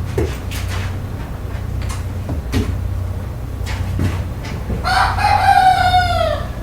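Rooster crowing once about five seconds in, one long call that drops in pitch at its end, after a few short clicks and brief calls, over a steady low hum.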